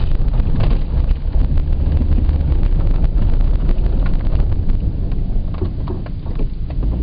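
Car driving slowly, heard from inside the cabin: a steady low rumble of engine and road noise, with scattered knocks and rattles.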